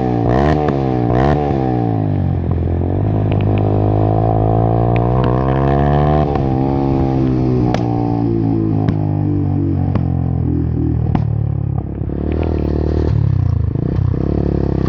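Engine with a loud modified exhaust being revved: quick blips at first, then a longer rev that rises and falls. As the revs drop, four sharp exhaust pops crack about a second apart, the deliberate backfire 'popping' of an exaggerated exhaust tune, before the engine settles back to idle near the end.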